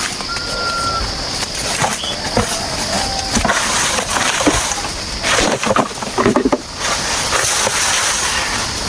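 Bamboo being worked by hand, with irregular knocks and cracks that bunch together about five to six and a half seconds in. Under them runs a steady high drone of rainforest insects, and a short whistle sounds near the start.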